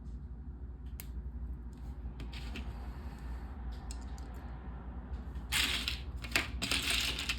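Small plastic LEGO pieces clicking and clattering as they are handled, with a louder stretch of rummaging through loose pieces about two-thirds of the way in.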